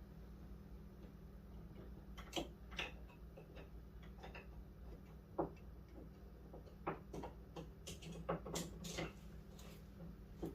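Scattered light clicks and taps of small metal parts and tools being handled while a door handle is fitted into a car door, over a steady low hum.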